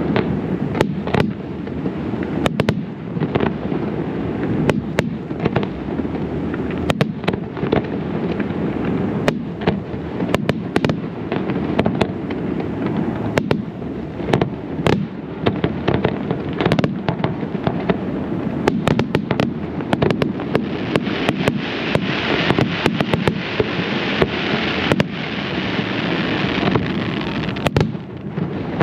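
Aerial fireworks display: a rapid, unbroken barrage of shell bursts and sharp reports over a continuous low rumble. Later in the stretch a louder hissing crackle joins in for a few seconds.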